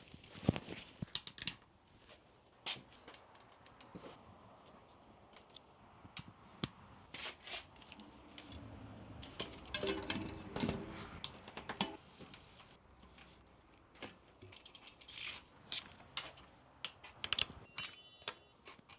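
Scattered sharp clicks and light metallic taps of tools and bike parts being handled during brake work, with a busier stretch of handling noise around the middle.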